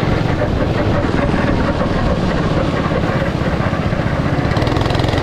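Go-kart engines running steadily, a fast low chugging with no sudden changes.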